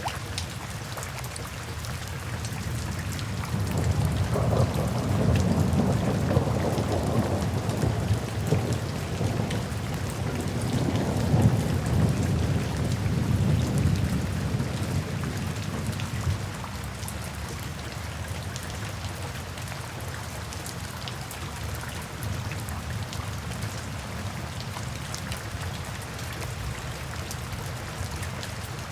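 Steady rain falling, with a long low roll of thunder that swells a few seconds in, rumbles on with two peaks, and fades out about halfway through.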